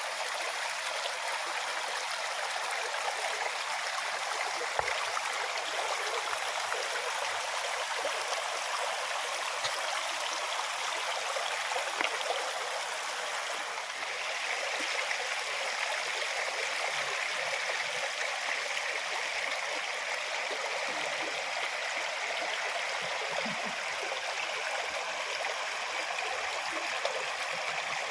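Stream water running steadily, an even, continuous rush.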